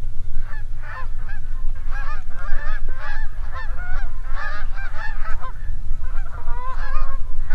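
A flock of Canada geese honking, many short overlapping calls at once, as the birds come in and land, over a steady low rumble.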